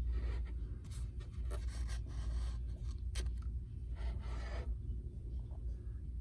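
Rubbing and scraping noises of items and the handheld camera being handled, with a few short scrapes and light clicks, over a steady low rumble.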